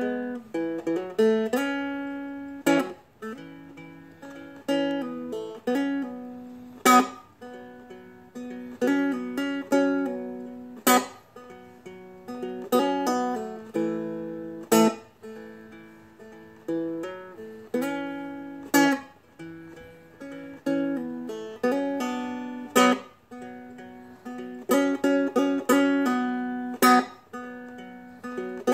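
A Seagull Merlin, a small dulcimer-style stringed instrument, played alone in a slow picked arrangement with no singing. A sharp strummed accent falls about every four seconds, with single picked notes ringing out between.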